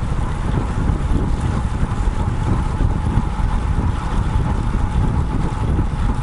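Wind buffeting the microphone of a bike-mounted action camera while a road bike is ridden, a steady low rumble mixed with tyre and road noise.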